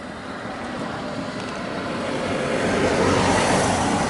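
A road vehicle passing close by over the level crossing. Its tyre and engine noise swells to a peak about three seconds in and then begins to fade.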